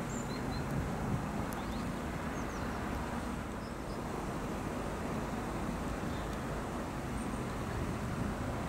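Distant trains, an electric-hauled InterCity and a diesel LINT railcar (class 623), pulling out of a station side by side: a steady low rumble mixed with outdoor noise.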